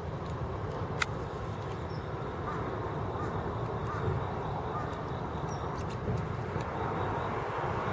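Steady outdoor background din of distant traffic, with a single sharp click about a second in.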